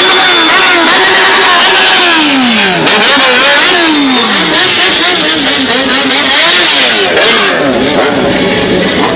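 Yamaha XJ6's inline-four engine revved over and over through a muffler-less 4-into-1 straight pipe, loud, the pitch climbing and then falling away in long drops.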